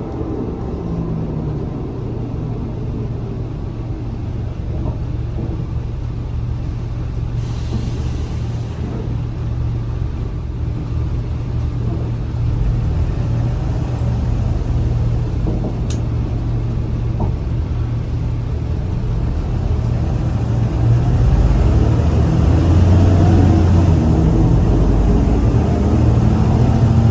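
Scania L94UA bus running with a steady low engine rumble that grows louder over the last several seconds as it pulls harder.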